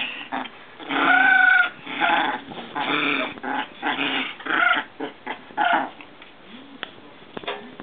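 Maltese puppies growling and barking in rough play, a string of short bursts that stop about six seconds in.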